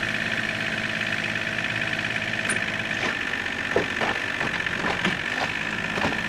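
Challenger MT275 tractor's diesel engine running steadily under a light load. A few faint knocks come from about three seconds in.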